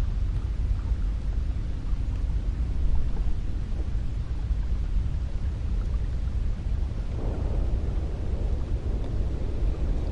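Cold wind blowing steadily with a deep rumble, a gust swelling about seven seconds in.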